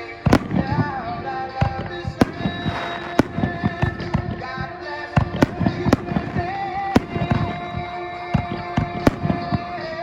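Fireworks going off in a rapid, irregular series of sharp bangs and crackles, over music with long held notes.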